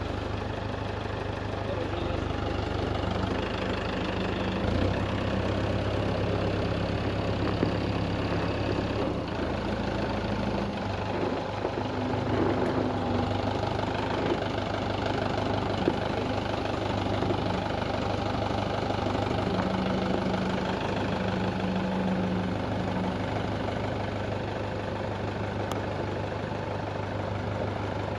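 Tractor engine running steadily, its low drone shifting in pitch and level several times in the first ten seconds or so as it works under load.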